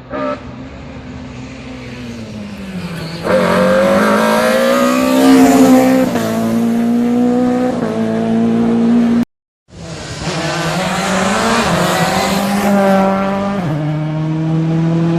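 Rally car engine revving hard as the car comes up and passes at speed, its pitch climbing and then dropping in steps at each gear change. The sound breaks off for a moment about nine seconds in, then another rally car's engine is heard revving through its gears.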